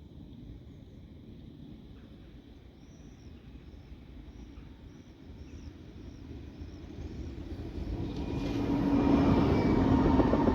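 A tram approaching on its line, the noise of it rolling on the rails rising steadily from about six seconds in until it is loud near the end, with a steady low hum in it.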